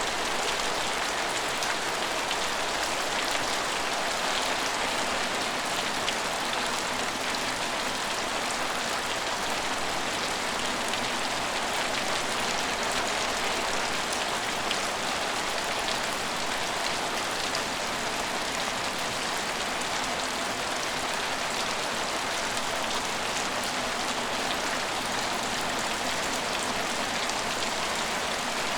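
Steady rain falling on hard surfaces, a dense even hiss with many fine drop ticks.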